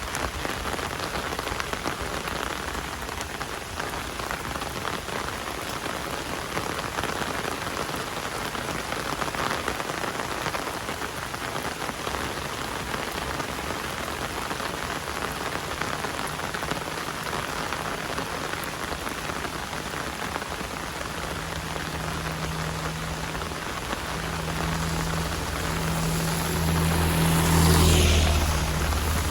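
Heavy rain falling steadily. In the last several seconds a low engine hum comes in and grows louder.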